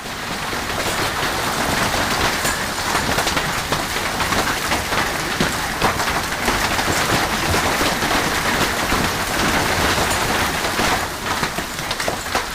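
Heavy rain in a storm: a loud, steady rush speckled with many small hits, easing off near the end.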